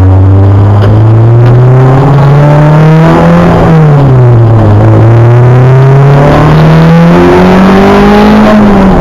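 Loud Acura Integra race car engine, heard on board, pulling hard. Its note climbs steadily for about three seconds, falls away for about a second, climbs again, and drops once more near the end.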